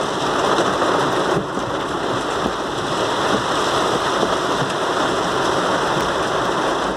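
Heavy rain pouring onto a car's roof and windscreen, heard from inside the car as a loud, steady hiss.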